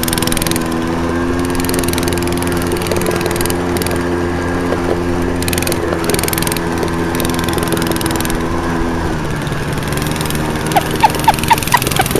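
Tecumseh 4 hp single-cylinder minibike engine running, loud with hardly a muffler, its pitch shifting a little with the throttle. A quick run of sharp pops comes near the end.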